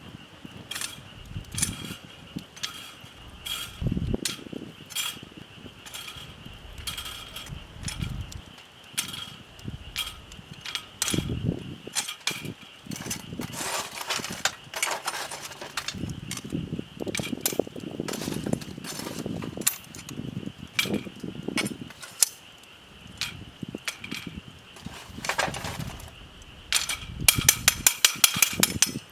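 Wood fire crackling and popping around stones heated red-hot in it, with irregular sharp clicks and a steady high-pitched hum underneath. Near the end comes a quick, louder run of clicks.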